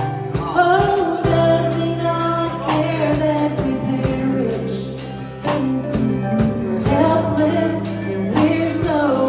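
Gospel worship song performed live: singing over a band with sustained keyboard and bass notes and a steady drum beat.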